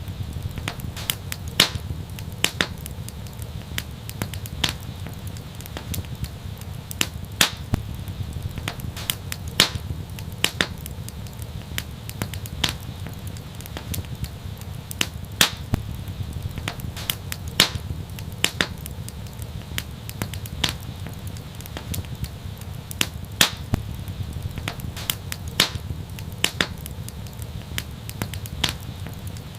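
Wood fire burning in an outdoor fireplace: a steady low rumble of flames with frequent sharp, irregular crackles and pops.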